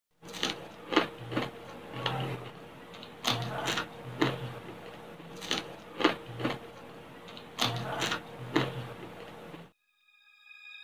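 Crispy fried pork belly being bitten and chewed close to the microphone: sharp crackly crunches, two or three a second, that stop abruptly near the end. A few faint music notes follow.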